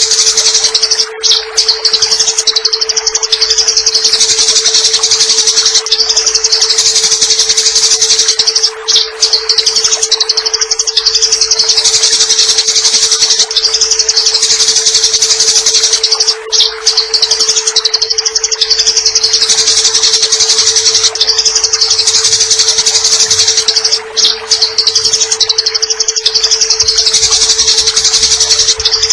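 Eurasian tree sparrows chattering in a dense, shrill, rapid stream of fighting chirps, breaking off briefly about every seven and a half seconds, over a steady wash of running water and a constant tone.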